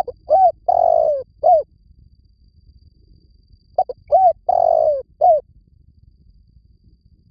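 Spotted dove cooing: two phrases, each of a few short coos around one longer drawn-out coo, about three seconds apart.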